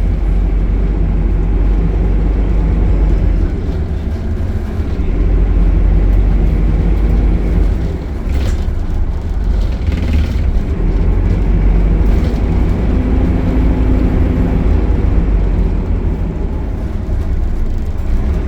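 Optare Solo bus's diesel engine and Allison automatic gearbox running steadily with a heavy low rumble, with a few brief knocks or rattles partway through.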